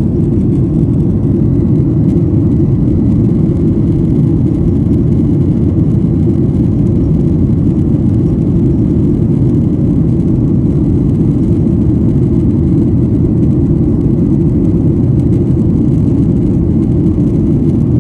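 Steady, low rumble of jet airliner cabin noise: engine and airflow noise heard from inside the passenger cabin.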